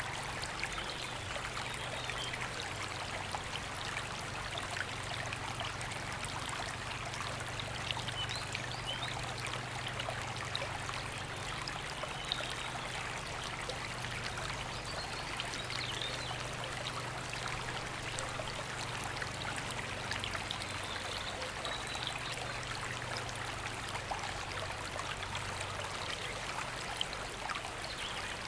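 River water flowing and splashing over stones, a steady rushing with fine droplet patter throughout. Faint bird chirps come through now and then.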